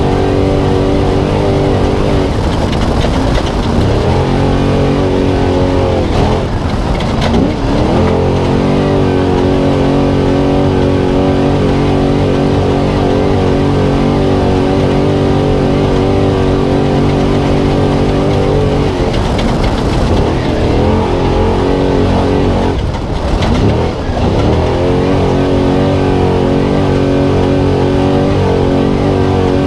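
Spec Trophy Truck's engine heard onboard at race pace, held at steady high revs for long stretches. Several times the revs drop away and climb back up as the driver lifts off and gets back on the throttle.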